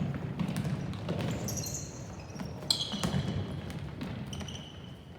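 Indoor court game: shoes squeak on a gym floor in short high chirps, three times, over ball bounces and thuds and a low hall hubbub.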